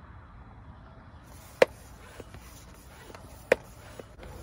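Two sharp clicks about two seconds apart, each with a brief ring, among a few fainter ticks, over a faint high hiss that sets in about a second in.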